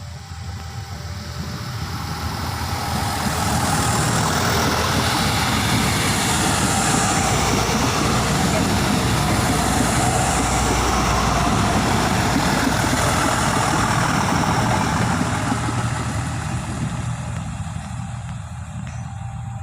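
Diesel train built by PT INKA for Philippine National Railways passing by: the engine drone and the rush of wheels on rails swell over about four seconds, hold for about ten, then fade away.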